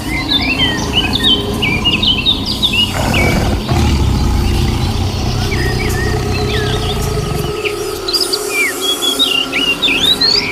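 Many small birds chirping in quick, overlapping calls, over a steady low rumble that drops away about seven and a half seconds in.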